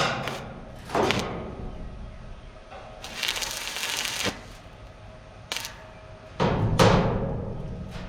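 Knocks and clanks of work on a steel boat hull, each strike ringing briefly, with a hissing rush of about a second in the middle and a heavier booming knock near the end.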